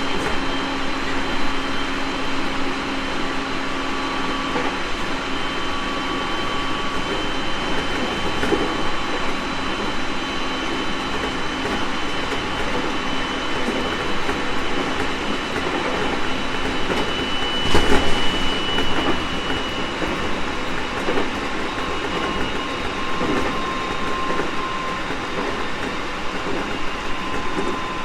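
JR East 701 series 1000-subseries electric multiple unit running at speed: steady wheel-on-rail rumble with the traction motors' steady whine, and occasional clacks from rail joints. One loud thump comes about two-thirds of the way in.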